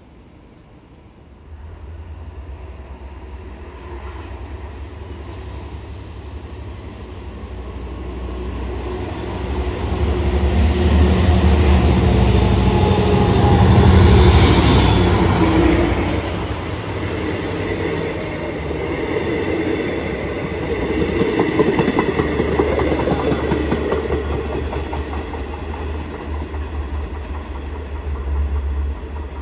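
Long Island Rail Road commuter train approaching and passing close by. It builds from about a second and a half in, is loudest about halfway through, and goes on with a run of wheel clicks over the rails.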